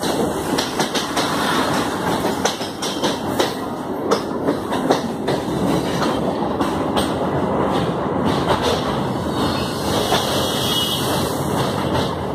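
A train running over the track, heard from on board: a steady rumble with the wheels clattering over the rails.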